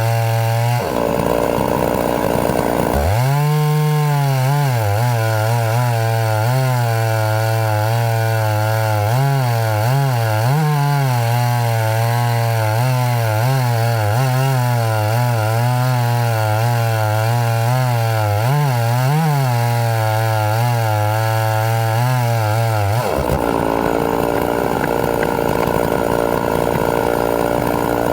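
Two-stroke chainsaw running hard and cutting wood, its engine speed wavering and dipping as the chain bites. It runs at a higher, freer pitch briefly near the start and again for the last few seconds.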